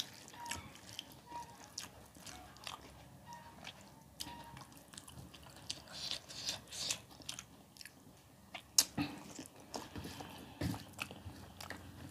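Close-up chewing and lip-smacking of a mouthful of rice and dal eaten by hand, with fingers squishing and mixing rice on a steel plate. Many small clicks throughout, with a sharp click about nine seconds in standing out.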